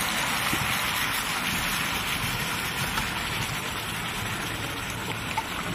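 Squirrel meat and spices frying in a large aluminium wok: a steady sizzle as soy sauce goes into the hot pan.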